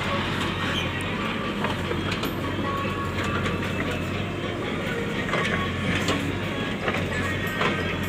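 Heavy machinery running: a steady low drone with scattered metallic clanks and knocks.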